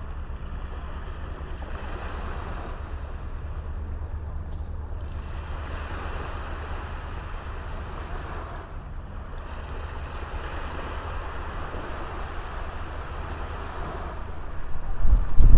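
Small waves washing onto a beach, swelling and easing every few seconds, under a steady low rumble of wind on the microphone. Near the end a strong gust of wind buffets the microphone loudly.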